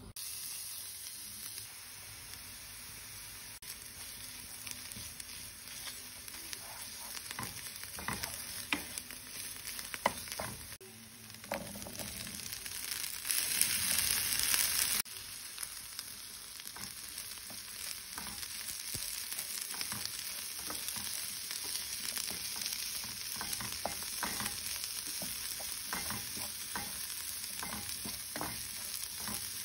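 Onion, garlic and tomato paste frying in oil in a nonstick pan, stirred with a wooden spatula that scrapes and taps against the pan. About halfway through the sizzling briefly gets louder as chickpeas are tipped into the hot pan, then they sizzle as they are stirred through.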